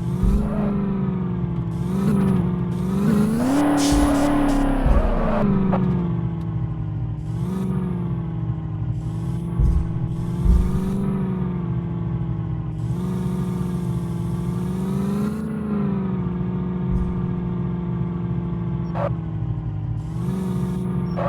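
A motor vehicle's engine running steadily, its pitch swelling slightly every couple of seconds, with a brief rev rising and falling about three to five seconds in.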